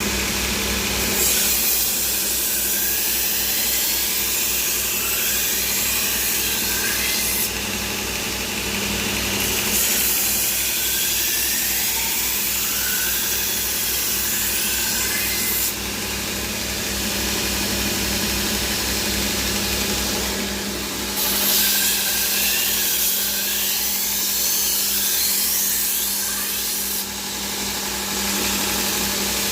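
Motor-driven knife-sharpening grinder running steadily while a butcher knife's steel blade is worked against the spinning wheel, giving a continuous grinding hiss with sweeping scraping tones. The hiss shifts every few seconds as the knife is moved or repositioned.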